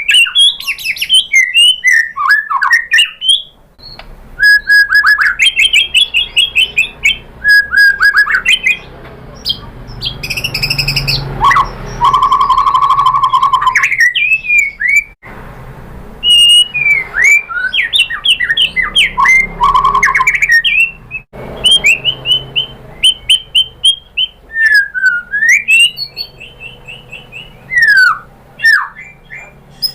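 White-rumped shama (murai batu) singing a loud, varied song of rapid whistles, trills and sweeping notes, broken about halfway by a harsh, buzzy phrase.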